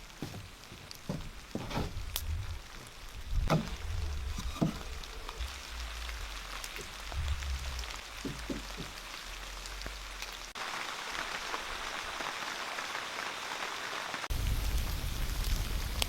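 A few scattered knocks, then a steady hiss of rain falling from about ten seconds in, with a low rumble joining near the end.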